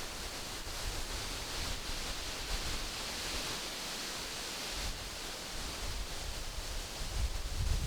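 Wind rustling through tree leaves: a steady hiss that swells in the middle. Low wind buffeting on the microphone comes in near the end.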